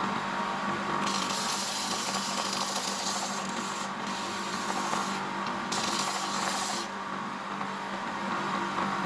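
Homemade belt grinder running with a steady motor hum. A hissing grind comes in and drops out several times, each spell lasting one to three seconds, as work is pressed to the abrasive belt and lifted off.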